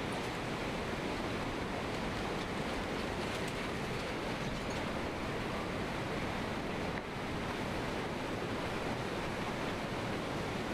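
Floodwater rushing in a steady, unbroken roar, with wind buffeting the microphone; the level dips briefly about seven seconds in.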